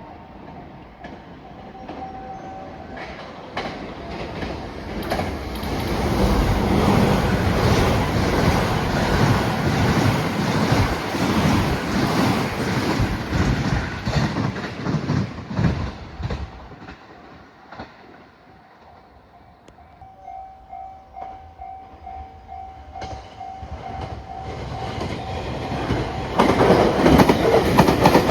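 A train running past on the platform track, wheels clattering over the rail joints, loudest in the middle and then fading; after a short lull a second train approaches, growing louder near the end.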